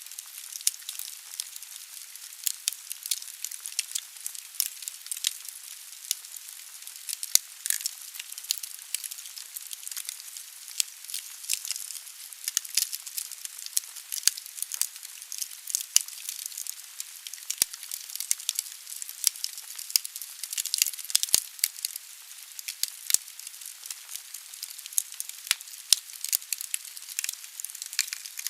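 Wood fire burning in a fireplace: a steady hiss from the flames with frequent sharp crackles and pops from the logs.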